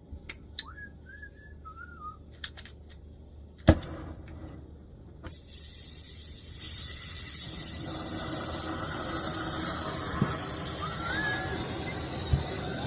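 A few clicks and a sharp knock, then about five seconds in a brazing torch starts burning with a loud steady hiss that grows louder a few seconds later. Short chirping whistles sound early on and again near the end.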